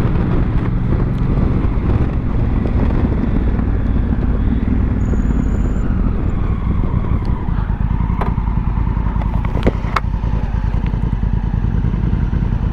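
Honda Africa Twin CRF1000L's parallel-twin engine, fitted with a Yoshimura exhaust, running steadily as the motorcycle rides along.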